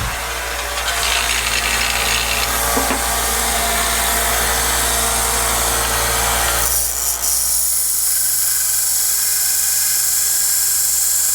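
Drill press running with its bit cutting into steel plate: a steady motor hum with cutting noise. About seven seconds in, the lower noise falls away and a high steady whine is left.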